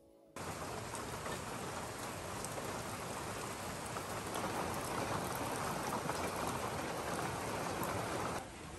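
Heavy rain falling, a dense steady patter of drops that cuts in suddenly about half a second in and steps down to lighter rain near the end.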